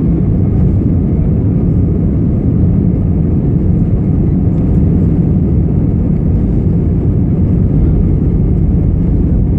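Airbus A318 airliner's jet engines during takeoff, heard from inside the cabin as a loud, steady low rumble that does not change.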